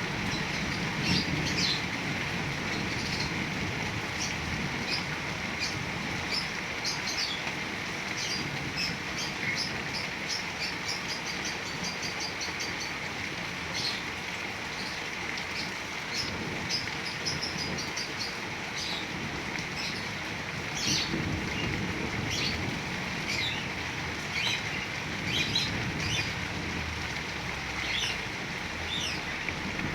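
Heavy rain falling steadily, with birds chirping in short, repeated calls throughout.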